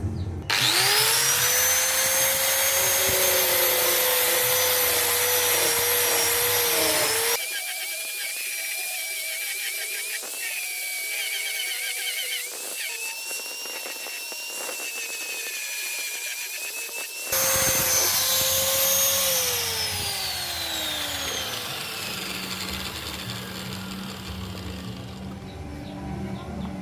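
Handheld electric power tool working on the rusty knife. The motor spins up and runs with a steady high whine, gives way to a thinner, higher whine that wavers, then comes back and winds down with falling pitch in the last third.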